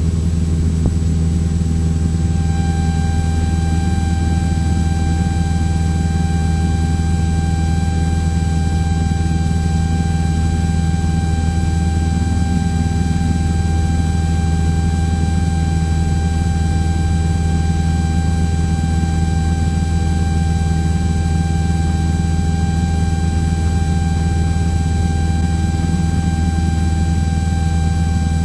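Steady drone of a Cessna 172's engine and propeller during the climb, unchanging throughout. A steady high-pitched whine joins in about two seconds in.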